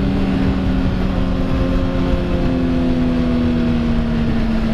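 Motorcycle engine running under way, its pitch slowly falling as the revs drop, over a heavy low wind rumble.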